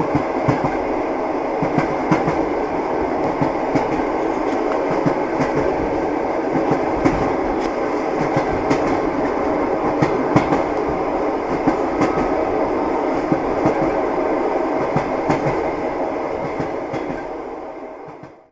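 A passenger train running on rails, heard from inside the carriage: a steady rumble with the clatter of the wheels over rail joints. It fades out over the last two seconds.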